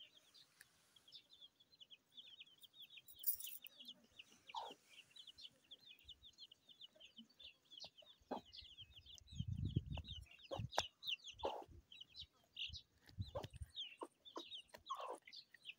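Faint, busy chirping of birds, many quick high calls overlapping, with a few lower calls in between. A low rumble comes about two-thirds of the way through.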